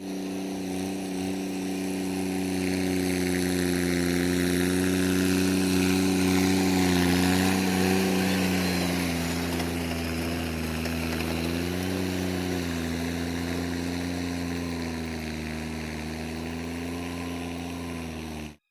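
John Deere 5050D tractor's three-cylinder diesel engine running steadily, its pitch dipping and rising slightly a few times. It grows louder over the first seven seconds or so, then slowly fades, and cuts off suddenly near the end.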